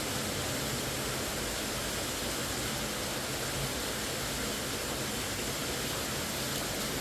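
Steady rushing of fast-flowing mountain river water, an even noise with no let-up.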